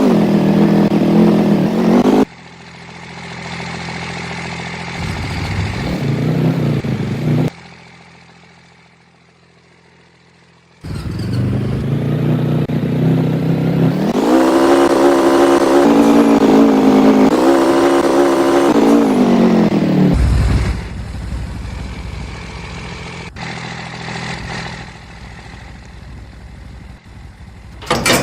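A motor vehicle's engine running, its pitch rising and holding high for several seconds, then dropping back, with the sound cutting in and out suddenly several times.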